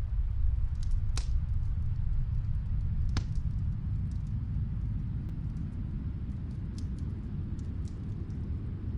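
Snowstorm wind as a steady low rumble, with a fireplace crackling faintly underneath: small scattered pops, and two louder ones about a second and about three seconds in.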